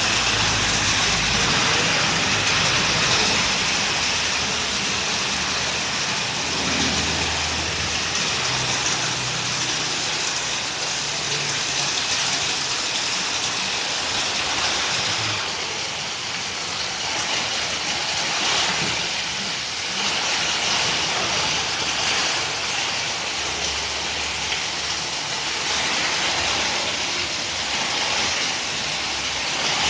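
Rain with wind pouring down steadily: a dense, even hiss. A low rumble comes and goes underneath.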